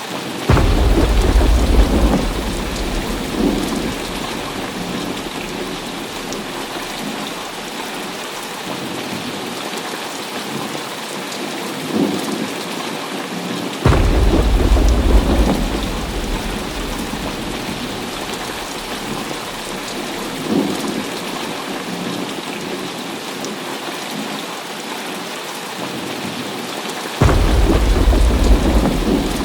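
Heavy rain falling steadily in a thunderstorm. Three sudden thunderclaps, about half a second in, around the middle and near the end, each a sharp crack rolling into a low rumble for a couple of seconds, with fainter rumbles between them.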